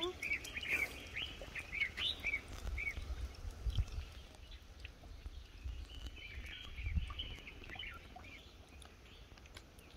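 Birds calling in quick, short chirps, busiest in the first three seconds and again around six to eight seconds in, over a low rumble.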